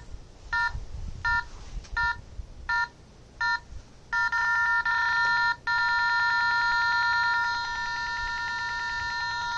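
Handheld EMF meter's alarm: short electronic beeps about every 0.7 seconds, then from about four seconds in a continuous tone with one brief break. The change from beeps to a steady tone is the sign of a stronger field reading.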